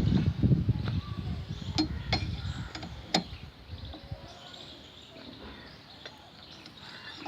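Tightening a gearbox mounting bolt with a 17 mm wrench: a low rumbling noise for the first four seconds, with a few sharp metallic clicks and clinks.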